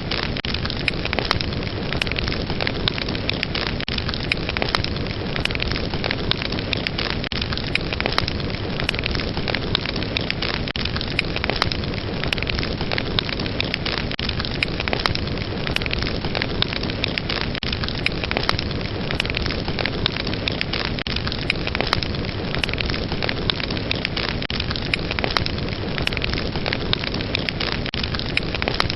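Fireplace fire crackling: a steady rushing hiss of flames with frequent small pops and snaps scattered throughout.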